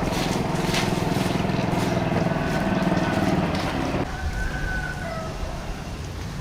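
Small vehicle engine running steadily, then cutting off abruptly about four seconds in.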